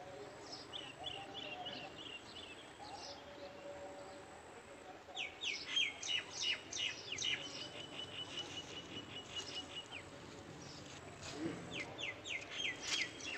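Songbirds chirping, with a quick run of high chirps and a fast trill of evenly repeated notes from about five seconds in, and another burst of chirps near the end.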